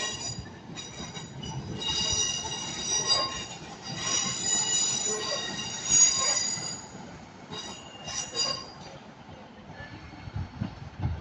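Class 150 diesel multiple unit's wheels squealing as it pulls in: a run of high-pitched screeches in several overlapping tones that come and go, dying away about nine seconds in.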